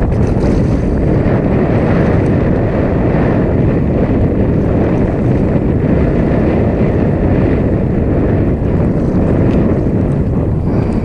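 A boat running across open water, with wind buffeting the microphone: a loud, steady rush of motor, hull and wind noise.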